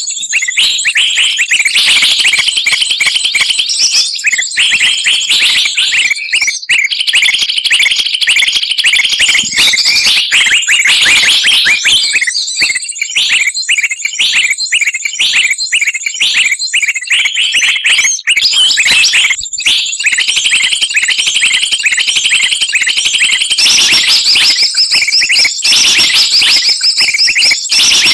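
Bird-lure recording of many small songbirds chattering and calling at once: a dense, unbroken jumble of high, rapid chirps and trills.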